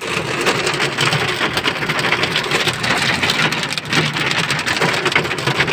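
Rain falling steadily, a dense patter of many drops.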